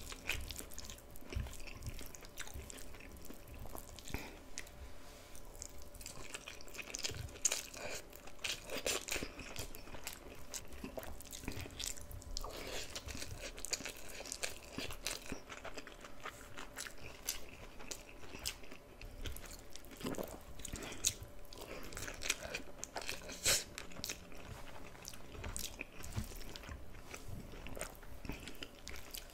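Close-miked chewing and crunching of a meal of jack mackerel in tomato sauce, potato fries, bok choy and rice: irregular wet mouth clicks and crunches, with a few louder bites.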